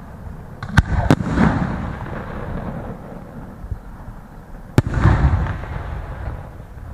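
Fireworks bursting: two loud bangs close together about a second in and another near five seconds, each followed by a rolling rumble.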